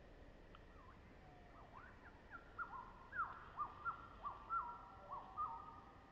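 A bird calling: a run of about ten clear whistled notes, about three a second, each a quick swoop that settles into a short held tone. It starts about two seconds in and stops about half a second before the end.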